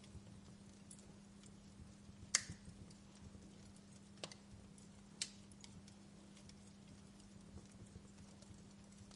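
Wood fire crackling quietly, with scattered faint ticks and a few sharp pops: one louder pop a little before the middle and two smaller ones soon after. A faint steady low hum runs underneath.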